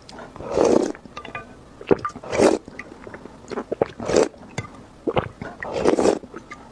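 Close-miked slurping and chewing of instant noodles: four wet slurps a little under two seconds apart, with small mouth clicks between them.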